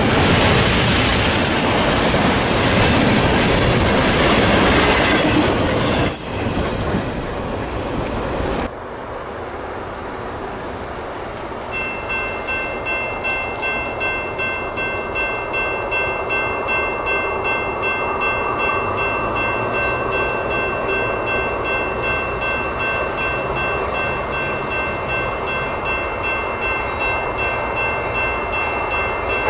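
Double-stack container train rolling past close by, a steady rush of wheel and car noise that cuts off abruptly about a third of the way in. Then a grade-crossing bell rings in even strokes, about two a second, over the low rumble of an approaching freight train.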